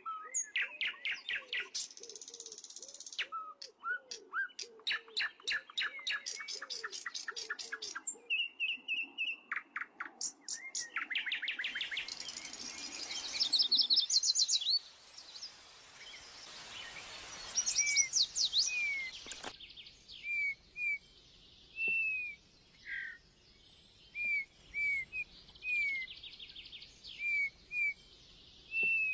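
Birds chirping and singing: fast trills and rapid chirps in the first half, then a run of separate short whistled notes that slide down in pitch.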